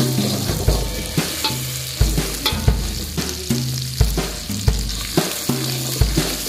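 Pounded spice paste sizzling in hot oil in a wok while a metal spatula stirs and scrapes it, with small clicks of the spatula on the pan. A low beat repeats about every two thirds of a second underneath.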